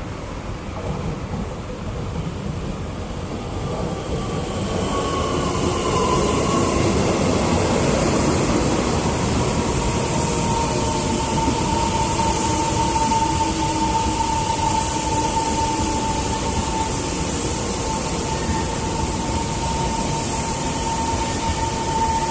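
EMU700 electric multiple unit running through a station, its rumble growing louder about five seconds in and staying loud. From about ten seconds in a steady high tone rides over the noise.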